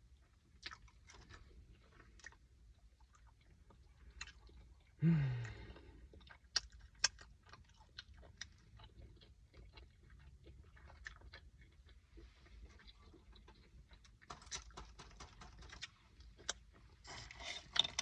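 Close-up chewing and crunching of food, with many small wet mouth clicks. About five seconds in, a short low hum from the eater's throat falls in pitch.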